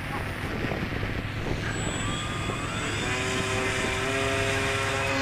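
Electric RC model airplane's motor and propeller, heard as a steady pitched whine that comes in about three seconds in and grows louder as the plane nears.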